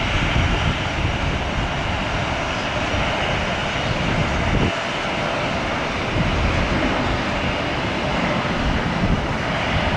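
Turbofan engines of an Embraer regional jet arriving at the airport, heard as a steady engine noise throughout.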